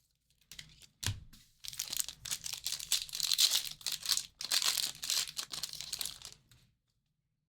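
Foil trading-card pack wrapper crinkling and tearing as a pack is opened and handled, with a soft thump about a second in.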